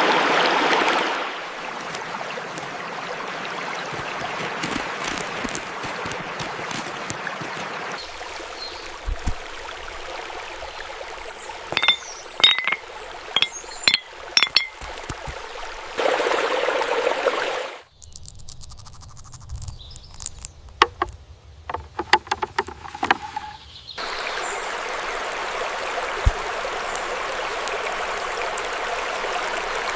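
Nature ambience of running water, made of several short recordings that switch abruptly every several seconds. A few short high chirps come near the middle, and a run of sharp clicks follows.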